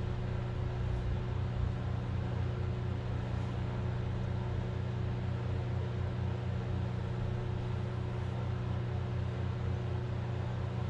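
A machine running in the background with a steady low hum and an even pulsing underneath.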